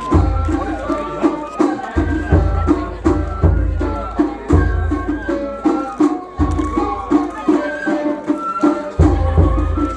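Japanese festival float music (matsuri-bayashi): heavy bass-drum strikes about once a second under a fast, steady small-drum rhythm, with a high bamboo-flute melody over it.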